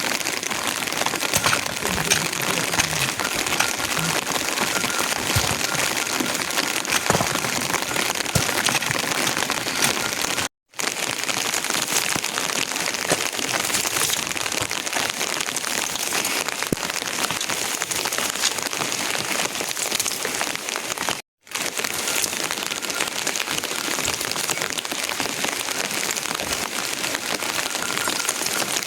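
Steady rain falling, a dense hiss of many small drops patting on surfaces. The sound drops out for a split second twice.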